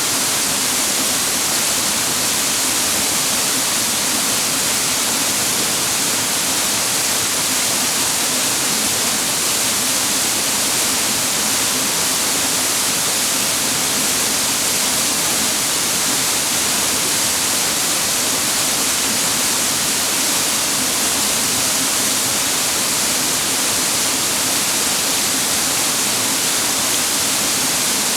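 Cascading water of a mountain stream rushing over rocks: a steady, loud hiss with no breaks.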